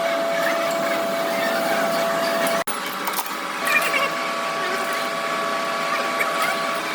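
Workshop machinery running steadily, a hum with a steady whine, broken by a sudden brief cut about two and a half seconds in.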